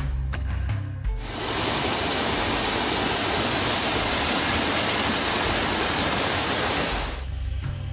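Background music that cuts out about a second in, giving way to the steady rushing of a waterfall for about six seconds; the music comes back near the end.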